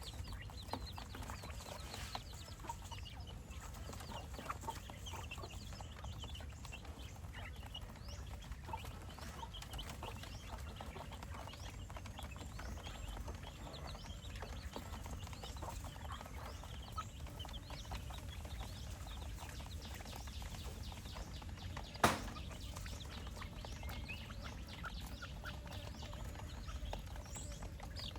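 Flock of quail calling: many short chirps and clucks scattered throughout, with one sharp knock about 22 seconds in.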